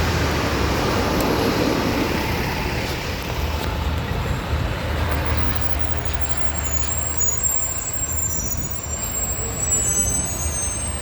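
Fire truck's engine running with a steady low rumble in street traffic, with a thin high-pitched squeal in the second half.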